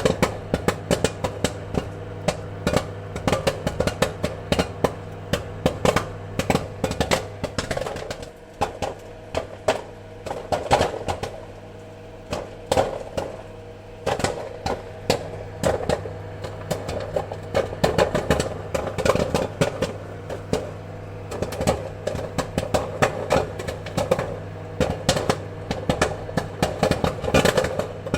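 Popcorn kernels popping, many irregular sharp pops a second, thinning out briefly a few times, over a steady low hum.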